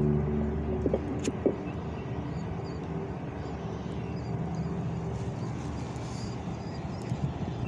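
Music fades out over the first second and a half, leaving a steady low rumble of vehicle noise. Faint, short high chirps come through in the middle.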